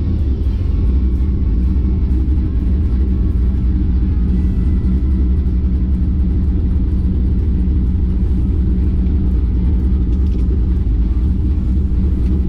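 Drag race car's engine running steadily at idle, a loud, low, even sound with no revving.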